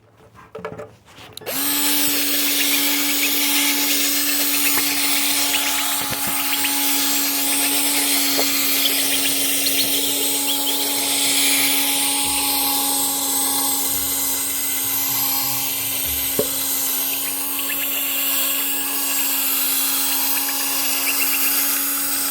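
Electric hand power tool starting up about a second and a half in and running steadily at one speed, a constant hum with a loud high hiss, as it works the fog light lenses during restoration.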